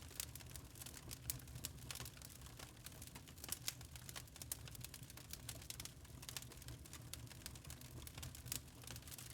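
Wood fire in a fireplace crackling, with irregular sharp pops and snaps over a low steady rumble of the burning logs.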